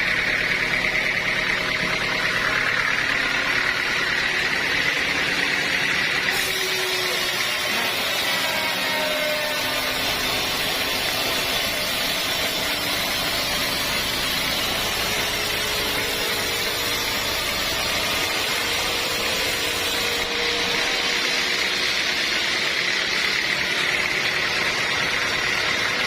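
Sawmill saw and its motor running steadily, with a constant whine; a brighter hiss joins from about six seconds in and drops away about six seconds before the end.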